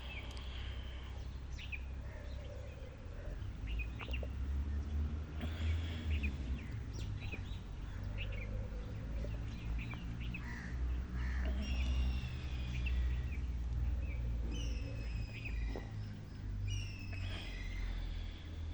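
Birds chirping and whistling in short calls throughout, over a steady low rumble.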